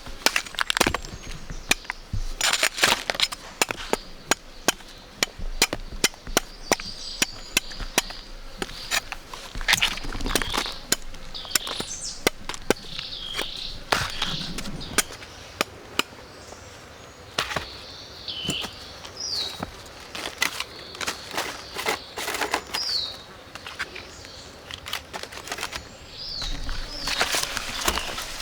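Many sharp, irregular clicks and snaps, with a few short falling bird chirps now and then.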